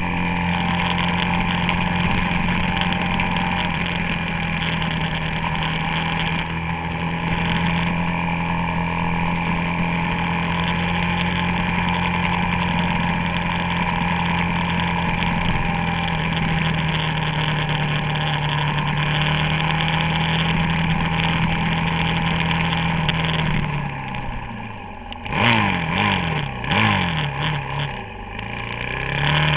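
Suzuki DR-Z400SM's single-cylinder four-stroke engine running at a steady pitch under way. Late on the revs drop, rise and fall quickly several times, then climb again near the end.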